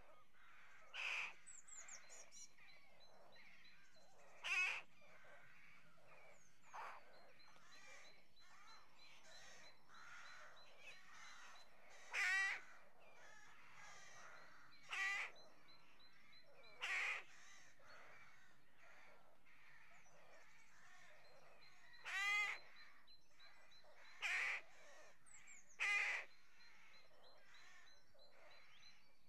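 Birds calling: about nine short calls spaced irregularly, one to five seconds apart, over a steady faint background hiss. A faint, fast, high-pitched ticking comes and goes underneath.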